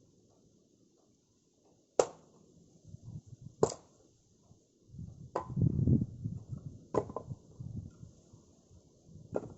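Firewood being chopped: five sharp, ringing strikes about every second and a half, with low clattering and rustling of wood between the later strikes.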